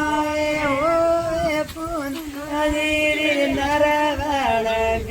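A solo voice singing long held notes, with slow bends and ornamented glides between them, like a chanted melody.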